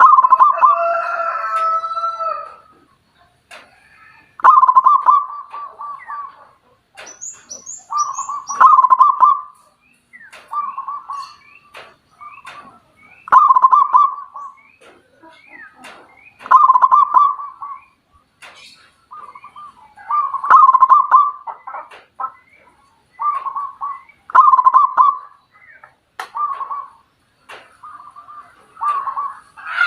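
A bird calling in a long series of short, strong phrases, each half a second to a second long and coming every one to two seconds. A few thin high chirps from another small bird come in about seven seconds in.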